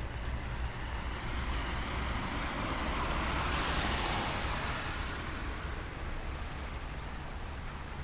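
A car passes on a wet street: the hiss of its tyres on the wet road swells to a peak about halfway through and fades away, over a steady low rumble of city traffic.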